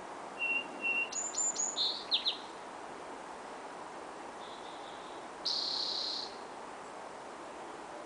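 Songbirds singing in woodland: a varied phrase of short whistled notes and quick down-slurs in the first couple of seconds, then a buzzy trill about five and a half seconds in, over a steady background hiss.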